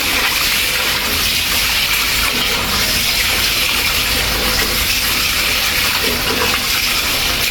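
Water running steadily from a kitchen tap into a bowl of rice, filling it for the rice's second rinse.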